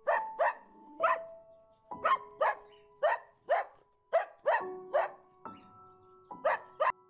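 Dog barking: about a dozen short, sharp barks, many in quick pairs, over background music with long held notes.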